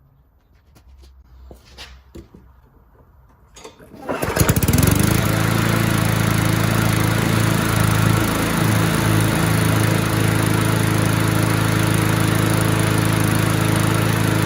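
Light clicks and taps, then about four seconds in an MTD lawnmower's small engine starts and runs at a steady speed.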